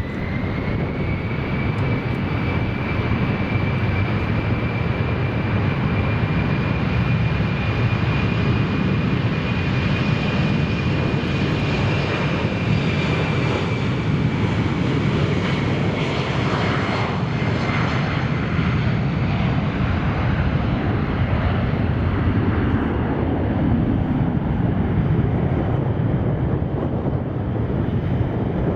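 Airliner engines running as an aircraft moves on or near the runway: a steady roar with a high whine that rises slightly at first, holds, then fades away just over halfway through.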